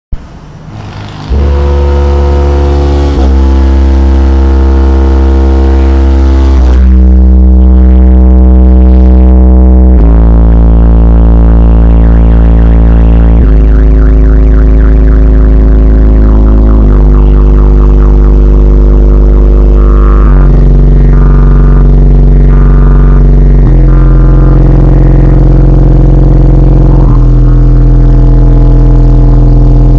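Car audio system's subwoofers playing very loud, deep sustained bass notes, each held for about three seconds before stepping to another pitch, starting about a second in.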